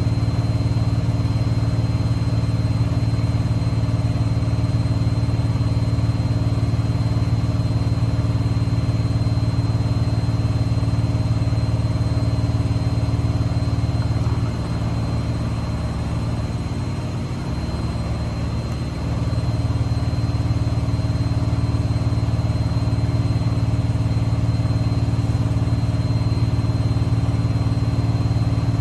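Privileg washing machine in its spin cycle: the drum and motor hum steadily at high speed, easing off briefly about halfway through and then picking back up to full speed.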